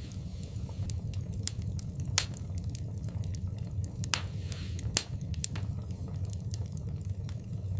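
Wood fire burning in a fireplace, crackling with irregular sharp pops over a steady low rumble. The loudest pops come about two and five seconds in, with a brief hiss just past four seconds.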